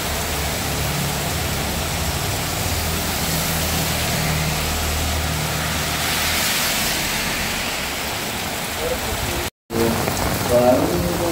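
Heavy rain falling steadily, with a low hum beneath it. The sound cuts out abruptly for a split second near the end, and steady tones begin just after.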